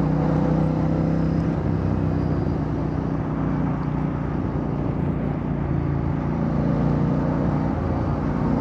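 Royal Enfield Bear 650's 648 cc parallel-twin engine breathing through a Red Rooster Performance aftermarket exhaust, running steadily while the bike cruises, over an even hiss of wind and road noise. The engine note dips slightly and climbs again near the end.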